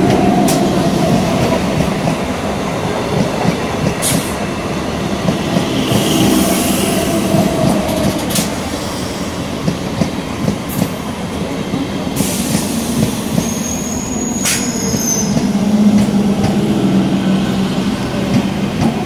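Indian Railways suburban EMU local train running past close by: a steady rumble of wheels on rail with occasional sharp clicks over the rail joints. A brief high-pitched wheel squeal comes about 14 seconds in.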